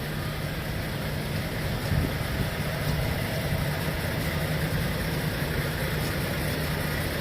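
Heavy truck diesel engine running steadily at low speed, a low even hum, with a brief knock about two seconds in.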